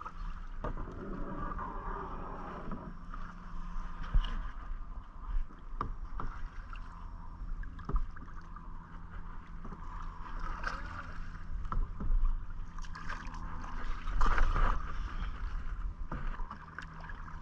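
Kayak paddling: paddle blades dipping and splashing in the water, with scattered sharp knocks, the loudest bunch about fourteen seconds in, over a steady low rumble.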